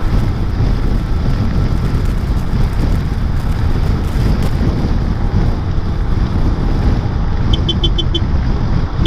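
Motor scooter riding slowly in traffic: a steady low rumble of engine and road with wind buffeting the microphone. Near the end comes a quick run of about five short high beeps.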